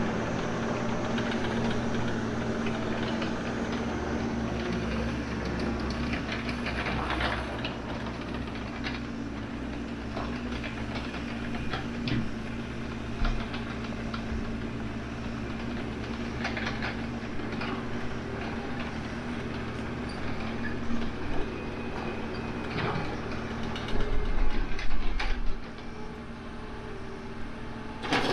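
Excavator engine running steadily under working load, with scattered metallic clanks and scrapes as it grades dirt. Near the end, a louder low rumble lasts a second or two.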